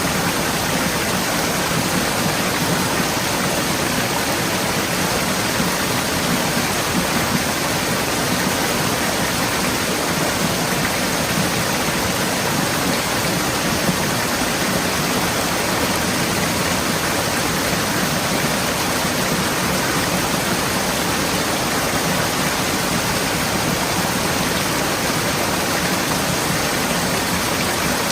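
Forest stream flowing steadily over rocks: a dense, even rush of water.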